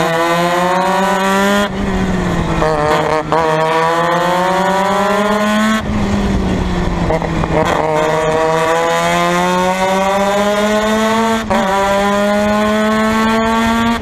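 Formula Mazda race car's rotary engine at full throttle, its pitch climbing steadily through the gears. Upshifts break the note about two seconds in and again near the end. Around the middle the revs fall back before it accelerates again.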